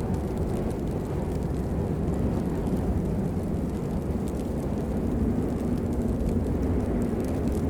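Steady rain, a dense even rush that is mostly deep rumble, with faint scattered drip ticks above it.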